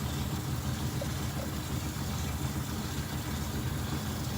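Steady low engine hum, unchanging, like a motor idling.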